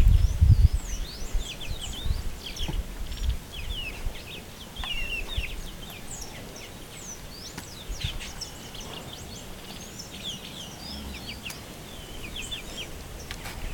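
Many small birds chirping and twittering, with short, quick calls all through. A low rumble in the first second.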